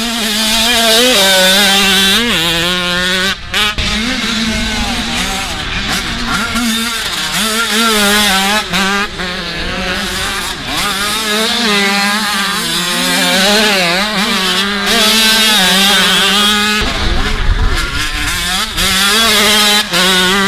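Several motocross dirt bike engines revving hard, their pitches overlapping and rising and falling as the riders work through the gears. One engine holds a steadier note underneath.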